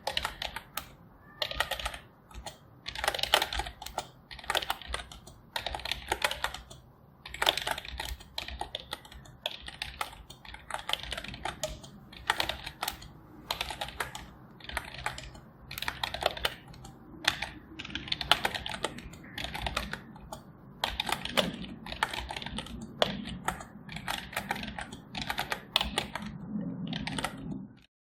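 Computer keyboard being typed on: runs of quick key clicks with short pauses between bursts.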